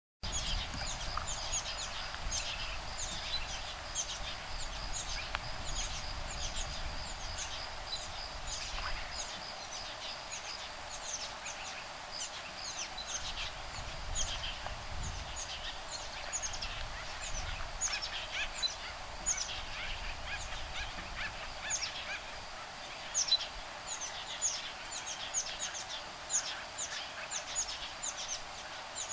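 Woodpecker nestlings and adults calling back and forth in a constant stream of short, high, downward-sweeping calls, over a steady high insect drone and a low rumble of breeze.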